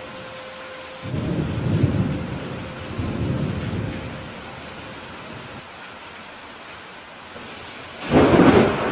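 Steady rain with thunder: low rumbles about a second in and again around three seconds, then a louder, sharper clap of thunder near the end.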